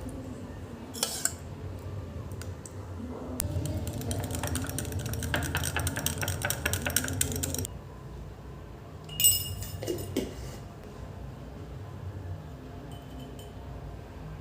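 Kitchen utensils and dishes clattering: a single clink about a second in, then about four seconds of rapid scraping or stirring clicks, then a ringing clink a little past the middle.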